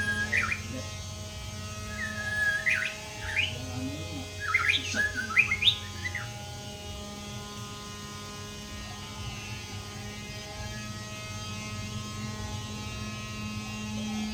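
White-rumped shama giving a burst of short whistled chirps and upward-sweeping notes over the first six seconds, then falling quiet. A steady electrical mains hum runs underneath.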